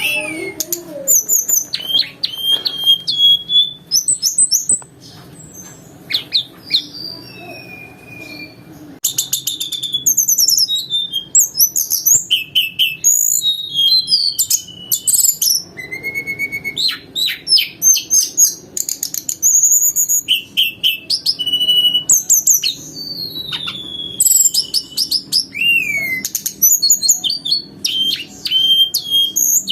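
A tledekan gunung (Sunda robin) singing a fast, varied song of flute-like whistles, chirps and trills, mixing in imitated canary and small-bird phrases, with a quieter stretch about five to nine seconds in. A faint steady low hum runs beneath.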